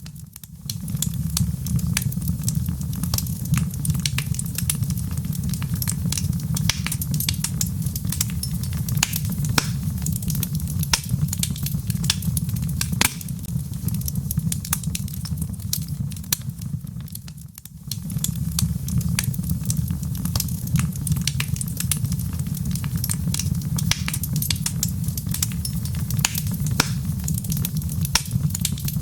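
Wood fire burning in a fireplace: dense, irregular crackles and pops from the logs over a steady low rumble of flame. The sound thins out briefly about 17 seconds in, then comes back at full strength.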